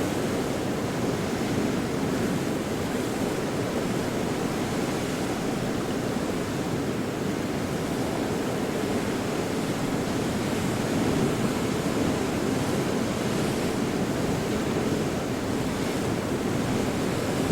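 Ocean surf breaking continuously: a steady, even wash of noise with no single wave standing out.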